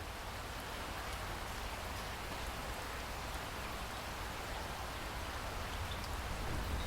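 Steady heavy rain falling, a dense even hiss. A low rumble underneath swells near the end as thunder begins to build.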